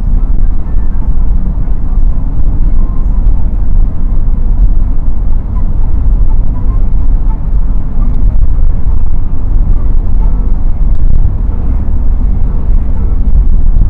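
Interior sound of a BMW E30 316i wagon on the move: the four-cylinder engine and tyre and road noise make a steady, loud, deep rumble.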